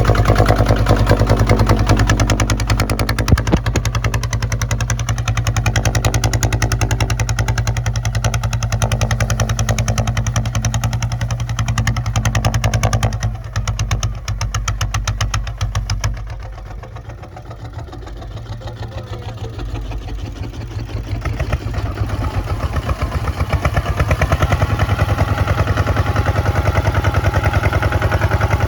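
Kubota ZT155 single-cylinder diesel engine of a two-wheel plowing tractor, chugging steadily. It falls quieter for several seconds about halfway through, then comes back up to full level.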